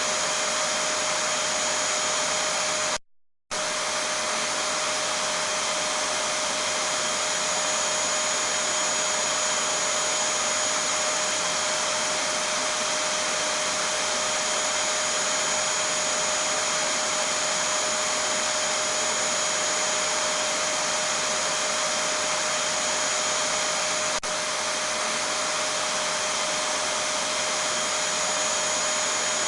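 Vacuum cleaner running steadily: an even rushing hiss with a constant high whine over it. The sound drops out completely for about half a second around three seconds in, then resumes unchanged.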